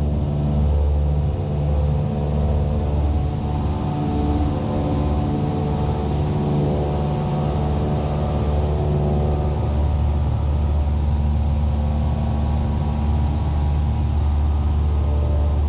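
Cessna 172's piston engine and propeller at full takeoff power during the climb-out just after rotation: a loud, steady drone whose pitch hardly changes.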